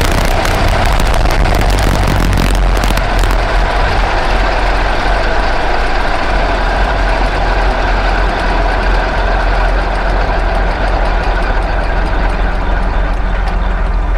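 Tractor running a New Holland Discbine disc mower-conditioner off its 1000 rpm PTO, the cutter discs spinning at about 2,500 to 3,000 rpm. It is a loud, steady machine drone with a strong low hum, with some clattering in the first few seconds.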